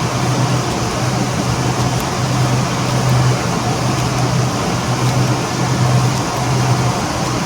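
Machinery running steadily, a loud even noise over a deep hum that swells and fades about once a second.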